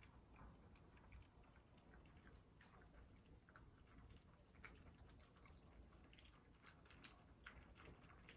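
Dog chewing and eating homemade food: faint, irregular small clicks and smacks.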